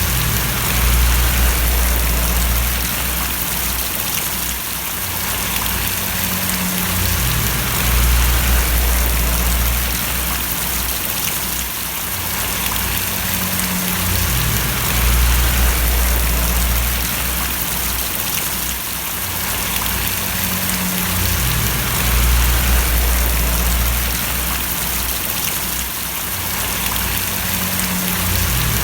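Steady rain falling and splashing, an even hiss of drops, with a low rumble underneath that swells and drops back about every seven seconds.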